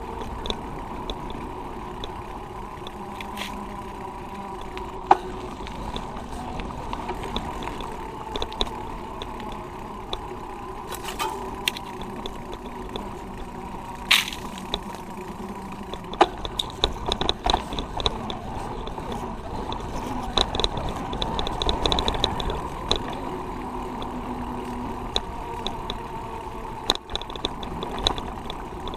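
Riding a road bike along a street in traffic: steady road and wind noise with vehicle engines around, and scattered sharp clicks and rattles from the bike, thickest a little past halfway.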